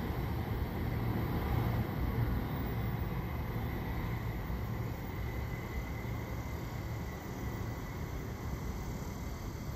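Low, steady rumble of an NJ Transit train with Comet IV coaches pulling away, slowly fading as it recedes down the line. A faint high whine rises and falls near the middle.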